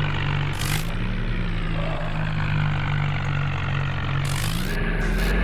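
Tractor diesel engine running at a steady speed, then revving up near the end, with a brief hiss about two-thirds of a second in.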